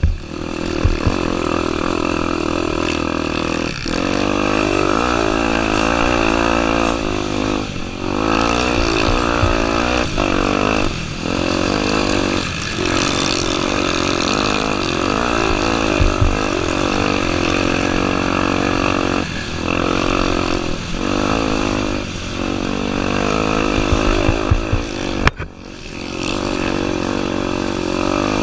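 Honda Tornado 250's single-cylinder four-stroke engine running under load, its pitch rising and falling as the throttle is worked, with the sound dropping off briefly several times along the way, with a deeper dip about 25 seconds in. Low thumps come through now and then.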